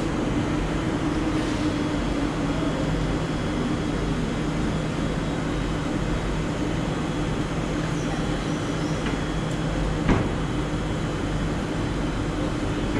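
Steady mechanical hum and rumble of a passenger train standing at a station platform, with one sharp knock about ten seconds in.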